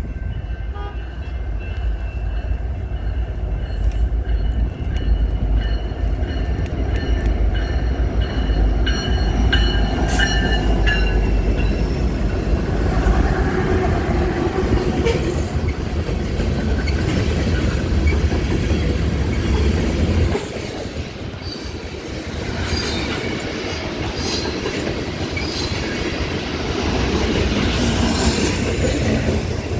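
Train passing on the rails: a steady low rumble of wheels and cars, with a thin high wheel squeal through the first twelve seconds or so. The rumble drops off suddenly about twenty seconds in.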